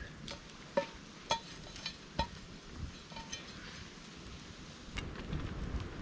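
Hard objects clinking and knocking at a campsite: about five sharp clinks in the first three and a half seconds, several with a short ringing note, over a low rumble, with one more click near the end.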